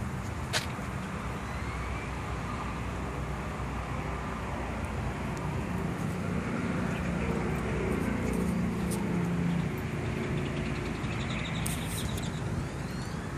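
Motor vehicle noise: a steady low rumble of traffic, with one vehicle's engine swelling and fading as it passes about six to ten seconds in. A few faint clicks.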